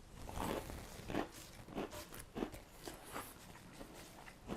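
A person chewing crunchy Cheetos: a run of faint, irregular crunches, about one every half second.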